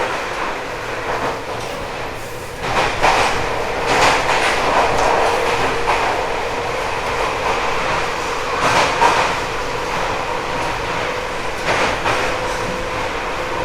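Running sound inside a JR 189 series motor car at speed: the MT54 traction motors hum with a steady tone under the rumble of the wheels, and the wheels clack over rail joints several times, loudest around 3 to 4 seconds in, again near 9 seconds and near 12 seconds.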